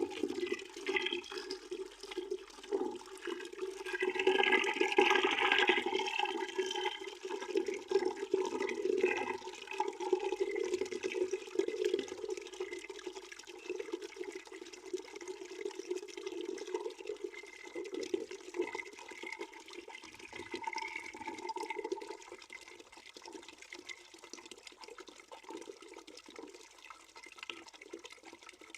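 Water running into a bucket, a steady splashing flow that is loudest about four to six seconds in and then slowly grows quieter.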